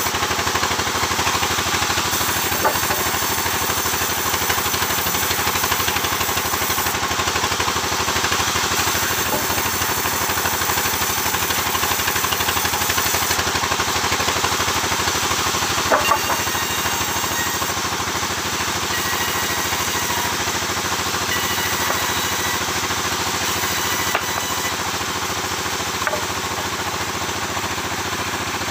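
Sawmill machinery and its engine running steadily, with a brief knock or two about sixteen seconds in.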